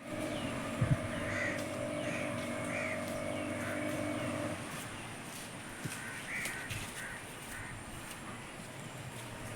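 Outdoor bird calls, short harsh calls repeated every second or so, over a steady low mechanical hum that stops about halfway through. A couple of sharp knocks come about a second in.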